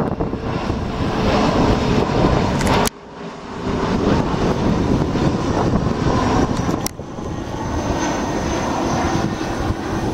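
Arriving airliner at close range: a loud, steady rush of engine noise. It breaks off abruptly twice, about three and seven seconds in, and rises again each time.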